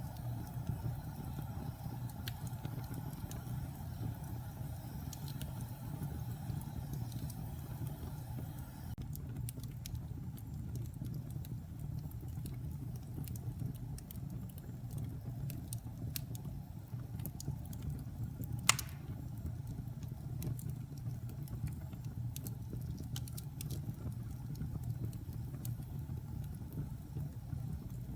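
Wood fire burning in a fireplace: a steady low rumble with scattered small crackles, and one sharp pop about two-thirds of the way through.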